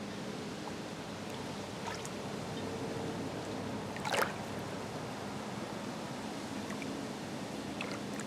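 Small waves lapping and trickling at the Green Bay shoreline, with one sharper splash about four seconds in.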